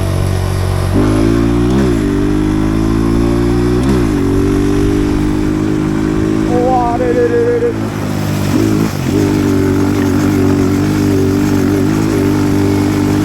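Pit bike engine running under way, its pitch rising and dipping with throttle and gear changes in the first few seconds. It falls away about eight seconds in, then picks up again and holds a steady, higher note.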